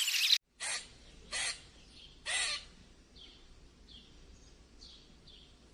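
A bird giving three loud, harsh calls about a second apart, with softer short calls in between.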